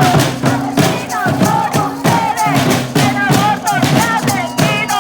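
Crowd of marchers chanting a slogan together over drums beating a steady quick rhythm, about three strokes a second.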